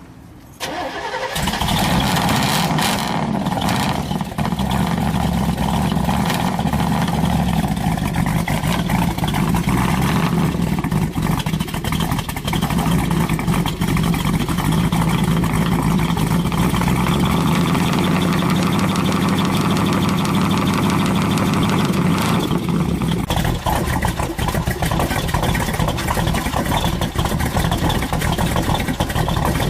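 Muscle car engine starting about a second in, then running steadily.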